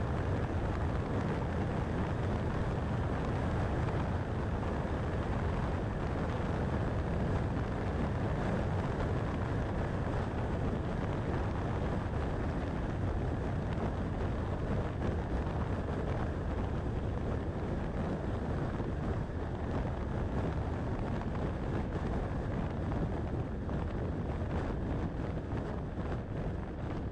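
Steady road and wind noise from a car driving on a highway, an even rumble and hiss that eases slightly near the end.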